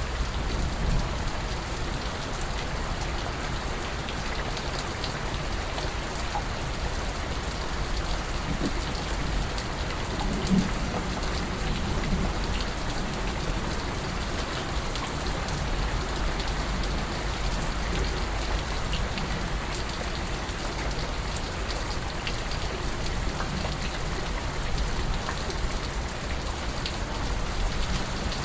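Steady rain falling, with scattered individual drips and patters on a surface.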